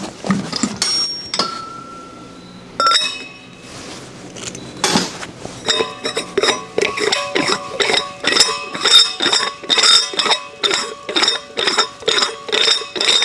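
Metal clinking and rattling against a steel welding gas cylinder, leaving it ringing. A few scattered clinks come first, then from about halfway a quick run of three to four strikes a second.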